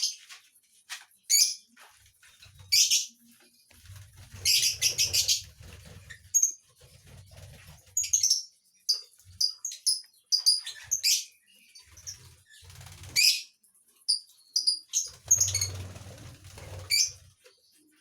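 Lovebird chirping: many short, shrill chirps and a few rapid chattering runs, irregularly spaced, with low rumbling bursts underneath at times.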